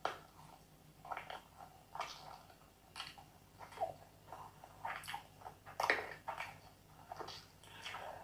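Close-miked eating sounds of chicken biryani eaten by hand: irregular chewing and mouth smacks, about two a second, with the loudest one about six seconds in.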